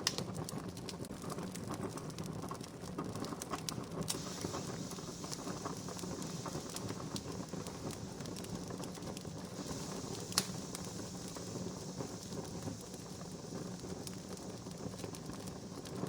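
Wood campfire crackling, with many small snaps and one sharper pop about ten seconds in, over a steady hiss that gets brighter about four seconds in.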